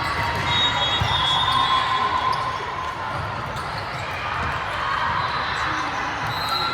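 Echoing gymnasium sound during a volleyball match: a hum of spectator chatter with ball thuds and short high squeaks, typical of sneakers on a court floor.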